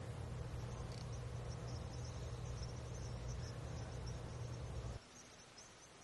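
Faint, rapid, high-pitched twittering of small birds over a steady low rumble. The rumble cuts off about five seconds in, leaving the twittering alone.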